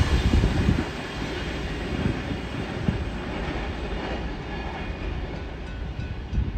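Freight train rolling past on the track, its wagons making a steady rumble; the noise drops noticeably about a second in and carries on at a lower level.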